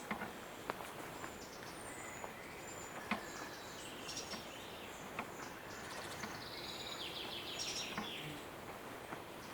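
Woodland songbirds singing and calling, with high thin notes throughout and a fast trill late on, over a faint steady background hiss. A few sharp clicks cut through.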